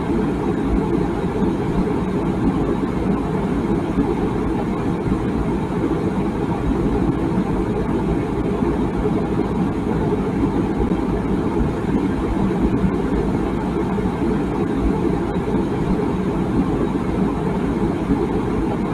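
Water boiling in a tea kettle: a steady low rumble with no whistle.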